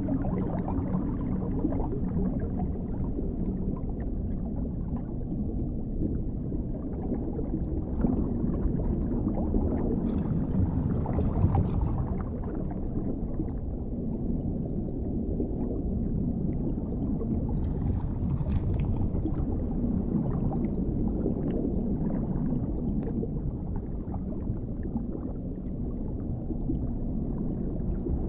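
Underwater ambience: a steady, deep, muffled wash of low noise, with faint scattered small ticks higher up.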